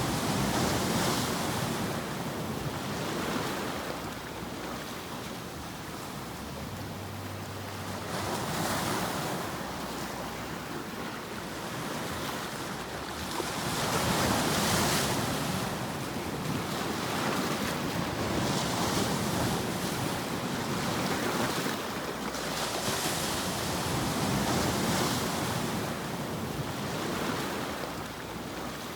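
Ocean surf: waves washing in and drawing back, a steady rushing noise that swells and fades every few seconds with no tones in it.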